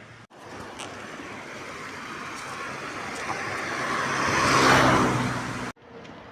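A road vehicle passing close by: a rush of engine and tyre noise that grows steadily louder to a peak about three-quarters of the way through, then starts to fade before it is cut off suddenly.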